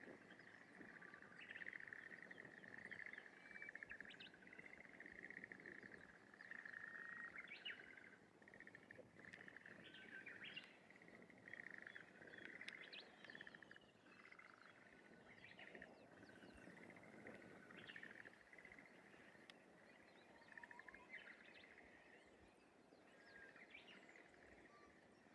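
Faint rice-paddy morning soundscape: a continuous, pulsing chorus of small animals calling at one steady pitch, with short bird chirps scattered over it.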